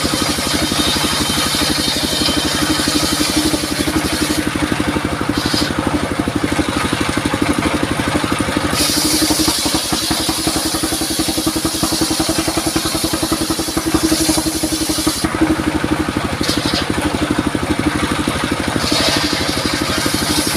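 Engine of a circular saw rig running steadily, with a rapid, even firing beat. A high hiss drops out and comes back several times.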